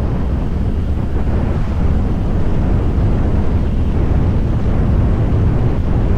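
Harley-Davidson Fat Boy's V-twin engine running steadily while riding, with wind buffeting the microphone.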